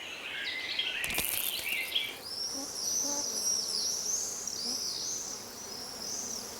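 Natural outdoor ambience of high-pitched chirping calls, repeating several times a second from about two and a half seconds in, with softer lower chirps and a short click in the first two seconds.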